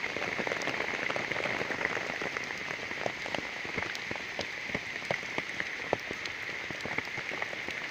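Steady heavy rain, with many sharp drop ticks standing out of the even hiss.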